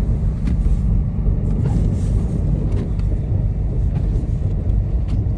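Dodge Charger Scat Pack's 392 Hemi V8 and drivetrain rumbling steadily as the car pushes through deep, unplowed snow, heard from inside the car, with a few faint ticks over the low rumble.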